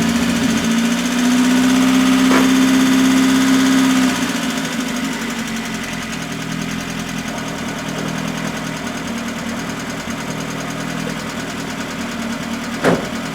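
Austin Princess engine running on a fairly high choke, held at a raised speed for about four seconds and then dropping back to a lower, steady run. A sharp knock sounds near the end.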